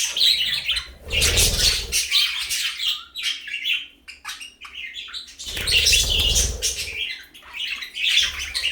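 Budgerigars chattering and chirping in busy bursts, thinning to scattered short chirps for a couple of seconds in the middle.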